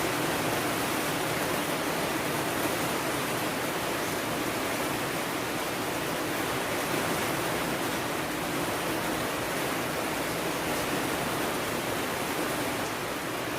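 Steady rain falling, an even wash of noise that holds without a break.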